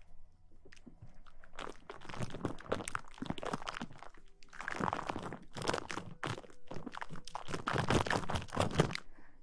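Close-up ASMR rustling: irregular crackly scratching and rubbing right against the microphone, coming in dense flurries, loudest around the middle and near the end.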